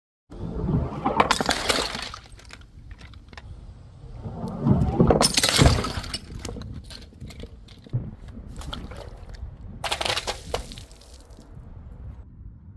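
Glass smashing and shattering in three main crashes, about a second in, around five seconds in and around ten seconds in, with loose shards clinking between them.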